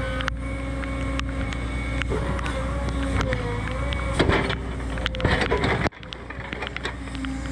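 Cat 314E excavator's diesel engine running steadily under load, with a held hydraulic whine and scattered knocks and scrapes from the machine working rock. The level drops abruptly just before six seconds in, then the engine sound picks up again.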